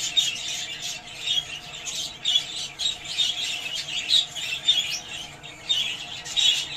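Budgerigars chattering: a steady run of quick, short chirps and squawks.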